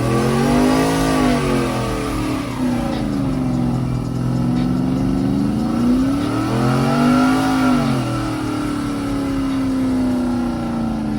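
Truck engine revving: it rises and falls twice in long sweeps, then holds at a steady raised speed before cutting off at the end.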